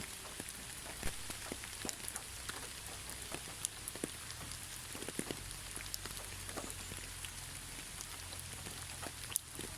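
Gentle rain falling steadily, with many separate drops pattering and ticking on a surface; no thunder.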